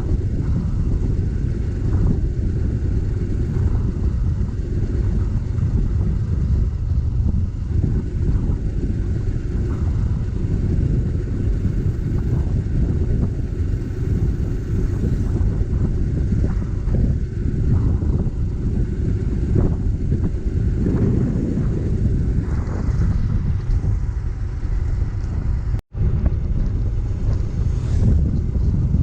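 A motorcycle on the move, heard as a steady low rumble of wind buffeting the microphone with the engine and road noise underneath. The sound cuts out for an instant about 26 seconds in.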